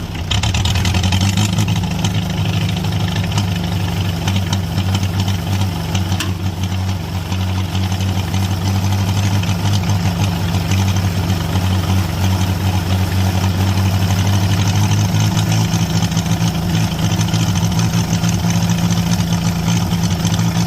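International Harvester B-275 tractor's diesel engine running steadily and loudly, with a step up in level right at the start.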